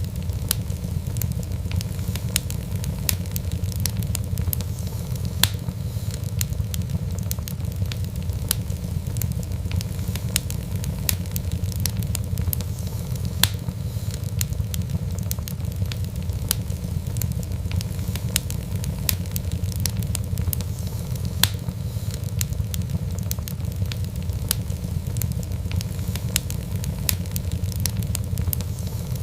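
Wood fire burning steadily, with a low rumble and frequent sharp crackles and pops at irregular intervals.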